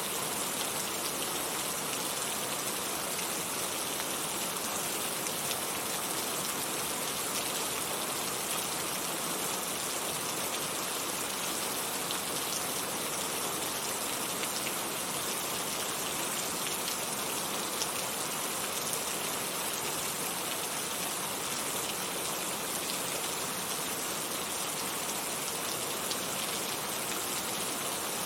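Heavy rain falling steadily, a dense even hiss with many fine drop patters and no letup.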